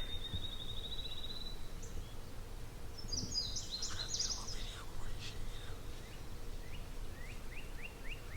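Wild birds calling over a steady low outdoor rumble: a high rising trill in the first second and a half, a short burst of song about three seconds in, then a quick run of short rising chirps near the end.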